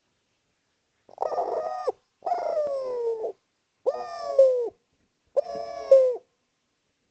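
Spotted dove (derkuku) cooing: four separate hoarse coo notes about a second and a half apart, the second one sliding downward in pitch.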